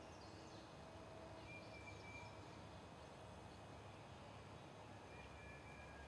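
Near silence: a low steady background rumble with a few faint, thin whistled bird notes scattered through it.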